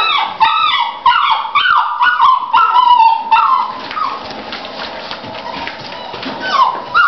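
Puppies whimpering and yelping in quick high-pitched cries that fall in pitch, thick for the first three seconds, fainter for a while, then a few more cries near the end.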